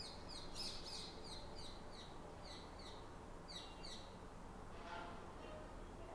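Faint bird chirping: a quick run of short, high chirps, each falling in pitch, over the first four seconds, then one lower call about five seconds in.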